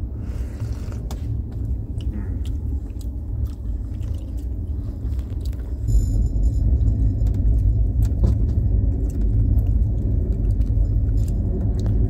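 A passenger train running, heard from inside a 2-tier AC sleeper coach: a steady low rumble from the wheels and track, with scattered light clicks and rattles. The rumble gets louder about halfway through.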